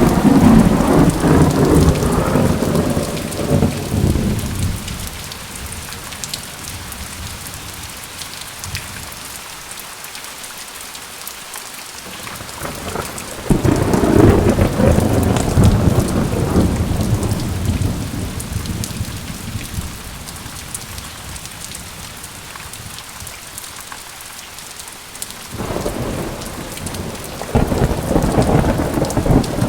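Steady rain hissing, with three rolls of thunder. The first rumbles at the start and dies away after about four seconds. The second breaks suddenly about halfway through and fades over several seconds. The third builds near the end.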